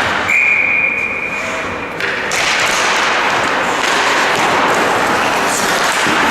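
A referee's whistle blown in one long steady blast of under two seconds, stopping play in an ice hockey game, over the constant noise of the arena crowd, which swells after the whistle.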